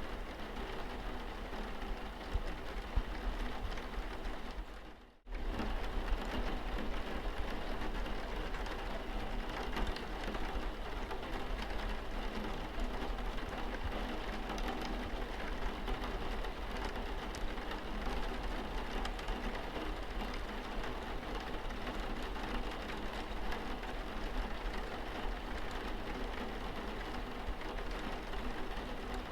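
Rain falling on a car's windscreen: a steady hiss of many small drop impacts over a low rumble. About five seconds in it briefly fades almost to silence and cuts straight back in.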